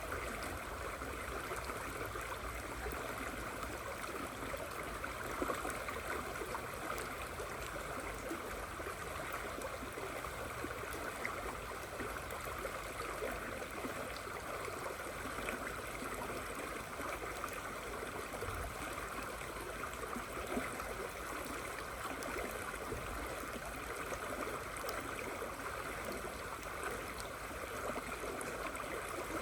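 A river flowing steadily in the rain: an even rushing of water with faint patter of raindrops.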